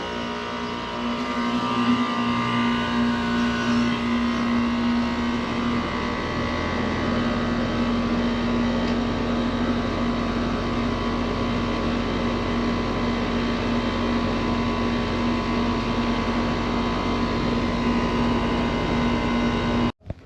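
Commercial air-conditioning unit running steadily under refrigerant charge, its compressor and condenser fan giving a constant hum with a wash of fan noise. The sound cuts off suddenly near the end.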